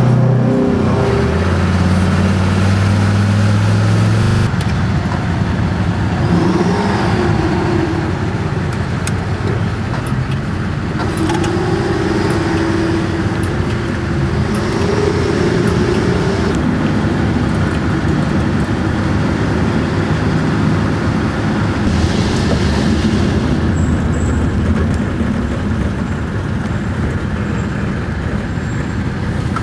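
Detroit Diesel 12V-71 two-stroke V12 diesel in an FTF heavy truck, running with a dense, steady low rumble. A clearer engine note stands out for the first few seconds before it settles into the even drone.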